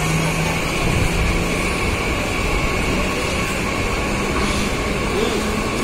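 Mumbai suburban EMU local train beside the platform: a steady rumble with a faint low hum.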